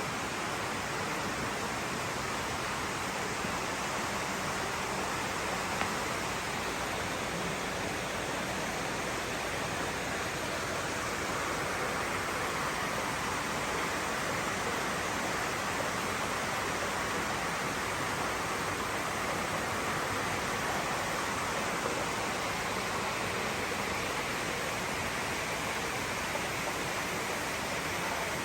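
Steady, even rush of running water from koi ponds and their filtration system.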